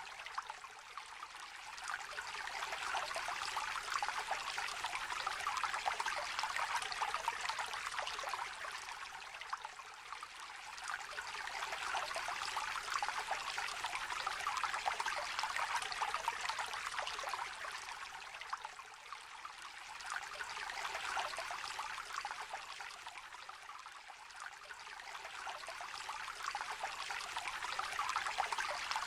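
Small river or shallow stream trickling and babbling over stones, a continuous light splashing and gurgling that gently swells and eases every several seconds.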